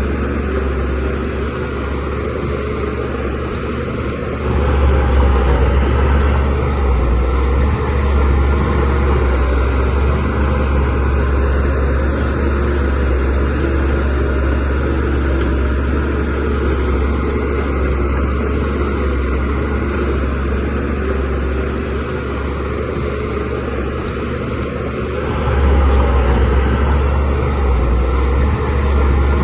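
Shantui DH17C3Pro bulldozer's diesel engine running with a steady low drone, getting louder about four seconds in and again near the end.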